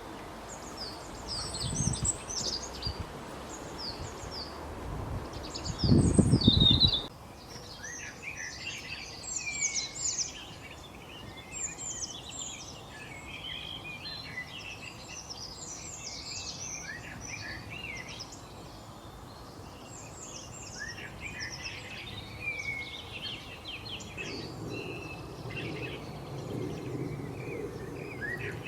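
Many short, rapid bird chirps and twitters, dense and overlapping, from songbirds. For the first seven seconds a low rumble of wind or handling noise runs underneath, loudest just before it cuts off abruptly about seven seconds in.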